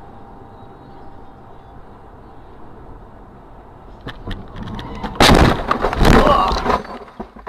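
Car collision heard through a dashcam: steady road and engine noise, a few sharp knocks about four seconds in, then a loud crash of impact lasting about two seconds before it dies away.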